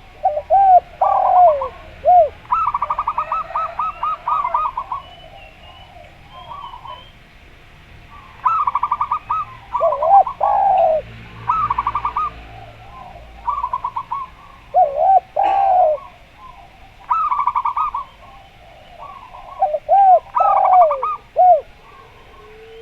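Zebra doves (perkutut) and a derkuku dove cooing together. Bouts of rapid, pulsed trilling coos alternate and overlap with lower, swooping coos, with faint chirps above.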